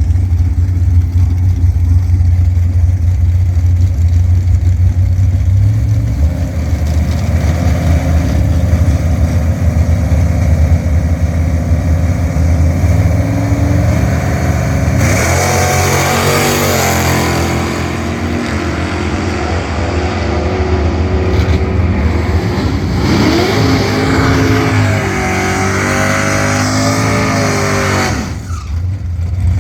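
Drag-racing car engine rumbling low, then about halfway through revving hard with a steep climb in pitch during a time-trial run, rising and falling again in the last few seconds.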